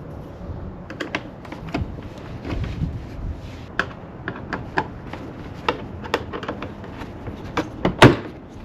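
Irregular plastic clicks, snaps and small knocks of a car's power window switch being handled and pried apart, with one louder knock near the end.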